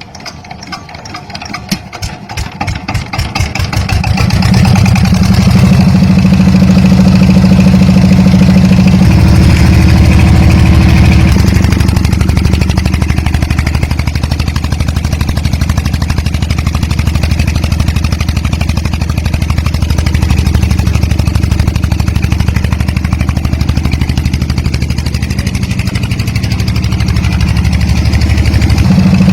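A motor starts up with a quickening run of pulses over the first few seconds, then runs steadily and loud, its hum shifting pitch a few times.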